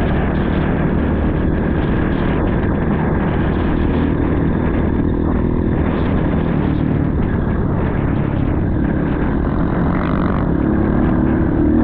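Motorcycle engine running steadily while riding, with a constant rushing noise over it.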